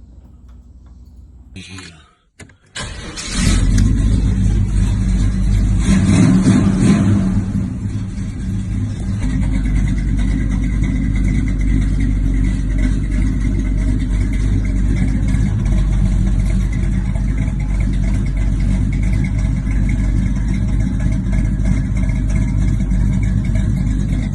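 Chevrolet Malibu SS engine cold-starting after sitting eight months in storage: it catches about three seconds in, runs up higher for a few seconds, then settles into a steady idle.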